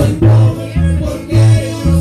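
Live music from a small trio: acoustic guitars plucked and strummed over a bass line, with bass notes falling on a steady beat about twice a second.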